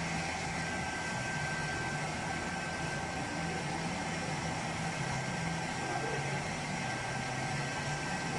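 Steady machinery hum with an even hiss and a faint thin whine, unchanging throughout.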